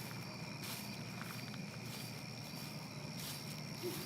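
Night forest ambience: insects chirping steadily, with a few slow footsteps on the forest floor. An owl begins hooting just before the end.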